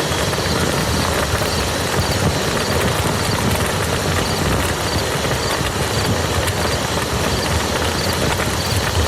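Steady heavy rain falling on a muddy field, a dense even patter of drops.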